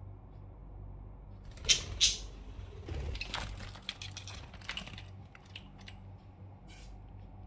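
A run of sharp clicks and short scraping noises, the two loudest a little under two seconds in and a busier cluster in the middle, over a low steady hum.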